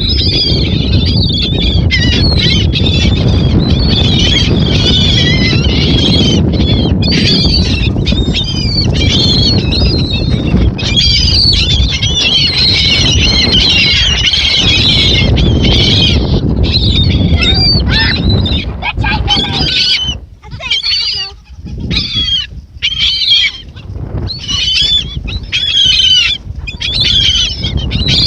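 A flock of birds calling, many squawking calls overlapping in a dense chorus that breaks into separate bursts with short gaps near the end, over a steady low rumble that fades out about two-thirds of the way through.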